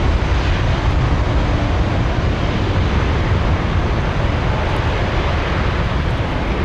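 Jet airliner's engines passing low on approach to land, a loud, steady rumble with hiss.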